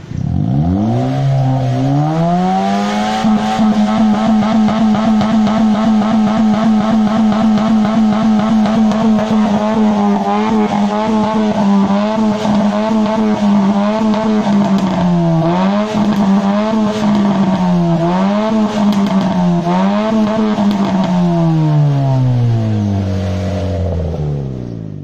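Honda Brio's four-cylinder petrol engine revving through an HKS racing exhaust. It climbs from idle about half a second in and is held high and steady, with several quick dips and recoveries in the second half, then settles back down near the end.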